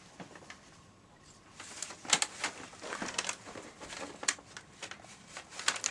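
Paper bag puppets rustling and crinkling as they are handled, in short irregular crackles starting about a second and a half in.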